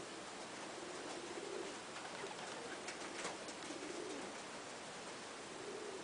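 Pigeons cooing, a few low coos spaced a couple of seconds apart over a steady hiss.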